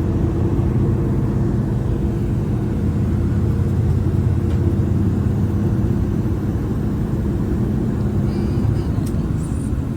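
Train running at speed, heard from inside the passenger car: a steady low rumble with a constant drone.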